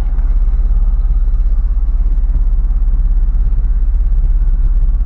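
Toyota 4Runner's 4.0-litre V6 engine running under light throttle as the truck backs out, heard from inside the cab: a steady low rumble with a fast, even pulse.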